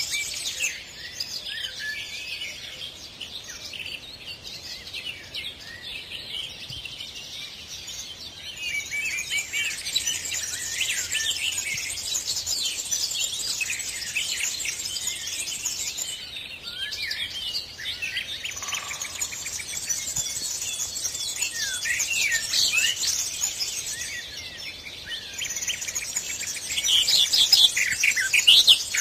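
A chorus of many birds chirping and singing over one another, a dense tangle of short high calls and trills that grows louder near the end.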